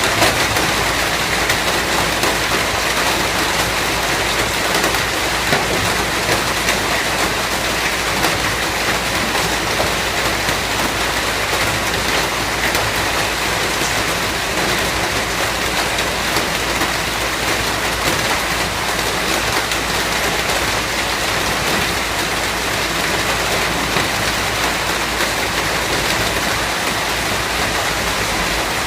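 Steady heavy rainfall, a dense even hiss of rain on surfaces.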